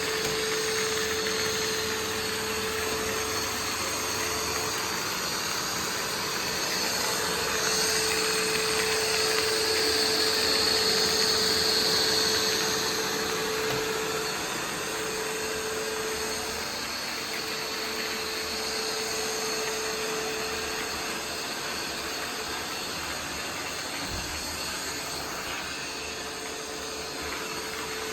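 Roomba 505 robot vacuum running: a steady whirring hum of its motor and brushes, with a low tone that drops in and out and a brief rise in loudness about eight to thirteen seconds in.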